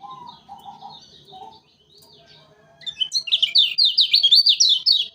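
Kecial kuning, a white-eye, singing: soft twittering at first, then from about three seconds in a loud, fast run of sweeping high notes, about five a second.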